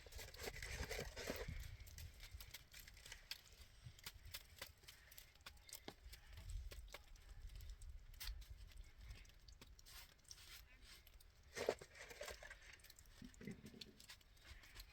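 Near silence: a faint low rumble with scattered soft clicks and rustles.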